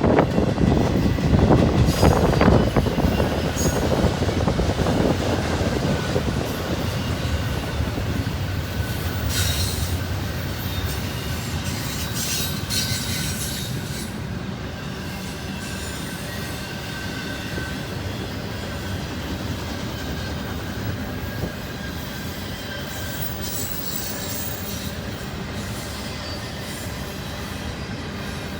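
Intermodal stack train's cars rolling past on the rails, steel wheels rumbling with a thin squeal and a few sharp clanks, the noise easing down gradually.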